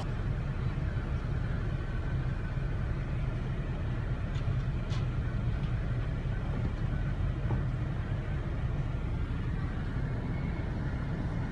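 Steady low vehicle rumble heard from inside a car, with a couple of faint clicks around the middle.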